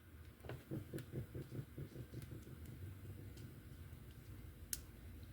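Faint handling noise of small plastic slot-car parts: a run of soft taps in the first couple of seconds, then scattered light clicks, with one sharper click near the end.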